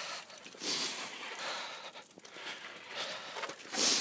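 A person breathing hard, with two loud, breathy exhales into the microphone, one about a second in and one near the end, and quieter breathing between.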